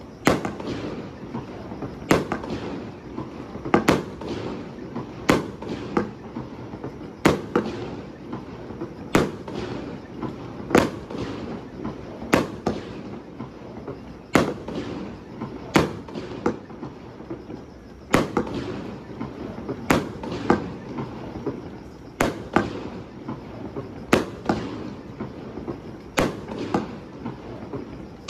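Aerial firework shells bursting one after another over the river, a sharp bang every second or two, each echoing briefly afterwards.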